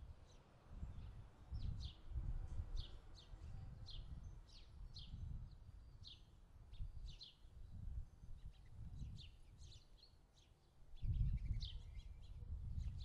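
Birds chirping outdoors: a long series of short, high chirps about every half second, over a low rumble that comes and goes in gusts.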